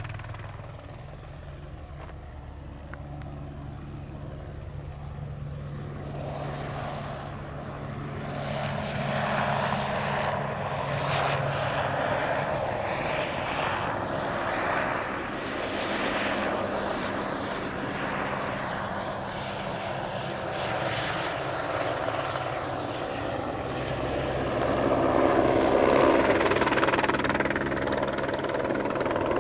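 Light single-turbine helicopter in low flight, its rotor and engine sound growing louder from about a quarter of the way in and loudest a few seconds before the end as it comes close.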